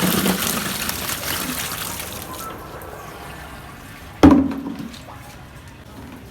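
Water pouring or running, fading out over the first couple of seconds, then one sharp knock about four seconds in.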